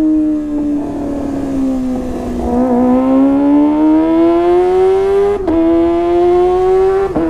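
Kawasaki ZX-25R's 250 cc inline-four through a Sportisi Motorsport SRX aftermarket exhaust, running high in the revs under way. The high engine note sags a little, then climbs steadily, with two sudden short breaks in the second half where the pitch drops a step, as at an upshift, before rising again.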